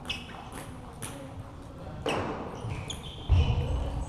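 Table tennis ball ticking off bats and table in a rally: sharp clicks about half a second apart. Then a louder, low rumbling noise starts about three seconds in.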